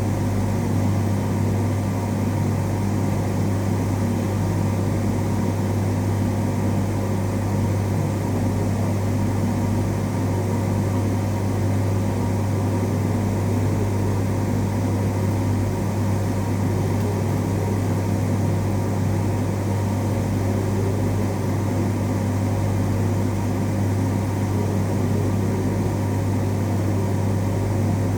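Steady low electrical hum, unchanging throughout, with a fainter higher whine over it.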